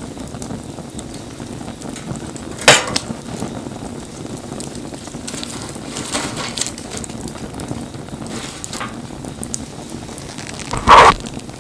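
Wood bonfire burning: a steady low rush with scattered crackles and two sharp, loud pops, one about three seconds in and the loudest near the end.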